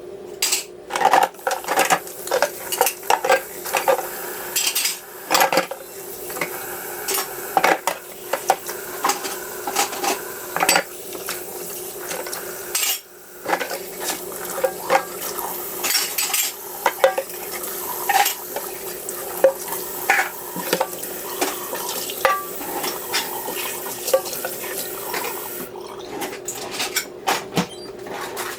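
Dishes, pots and cutlery clattering and clinking as they are handled, in many short separate knocks over a steady hum, with a brief pause about halfway through.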